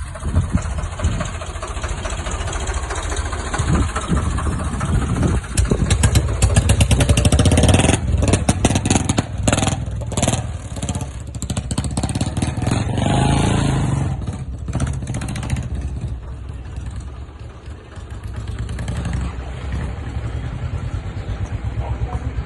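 A vehicle's engine running and revving up and down, with a stretch of rattling clatter partway through.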